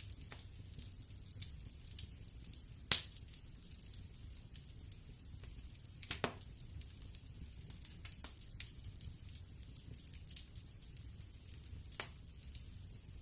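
Wood fire in a fireplace crackling, with irregular sharp pops: a loud one about three seconds in, others near the middle and near the end, over a low steady rumble.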